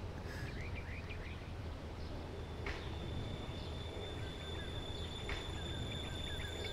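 Birds chirping in short clusters over a steady low hum of outdoor ambience; a little under three seconds in, a thin high steady tone begins and holds.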